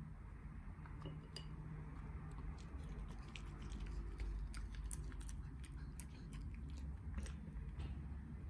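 A dachshund chewing food, with many quick irregular clicks of teeth and mouth, over a low steady hum.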